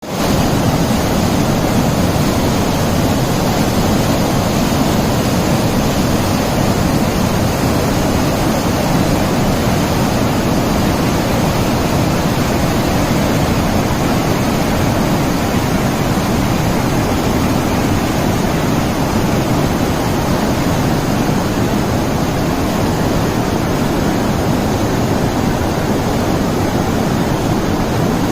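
Waterfall: a steady, loud rush of falling water, with most of its weight low and deep and no change in level.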